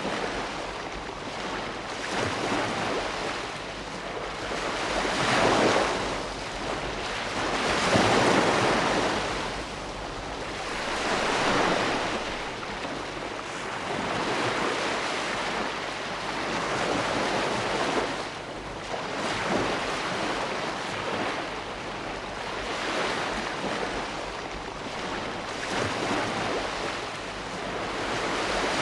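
Ocean waves breaking and washing on a shore, a continuous surf noise that swells and ebbs every few seconds.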